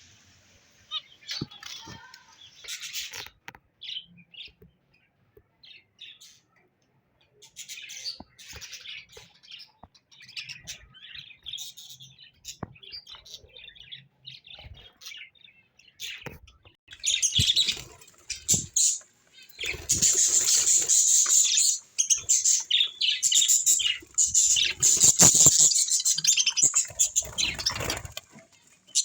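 Small birds chirping and twittering in short, scattered calls. In the second half a long, louder stretch of rustling and fluttering wings joins them, with the chirping still going on.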